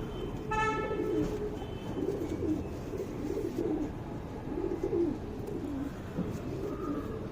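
Domestic pigeons cooing, a run of repeated low coos. A brief horn toot sounds about half a second in.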